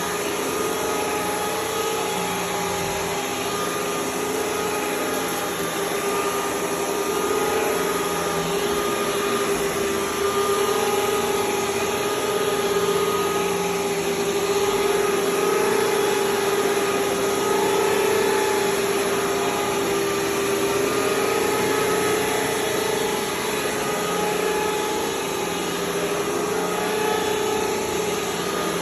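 Hoover Tempo 450 vacuum cleaner running with its power nozzle: a steady motor whine with a strong hum that wavers slightly in pitch and loudness.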